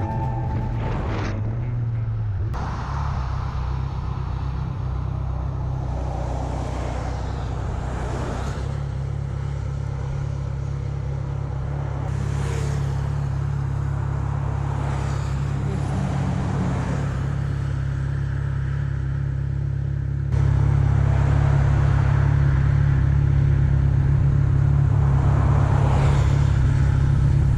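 Motorcycle engine running steadily at cruising speed under wind noise, with a few swells of passing traffic; the drone steps up in loudness about twenty seconds in.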